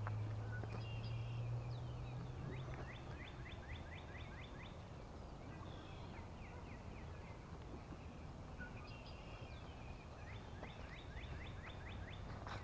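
A songbird singing several times, each song a quick run of short falling notes. A low steady hum fades out in the first few seconds.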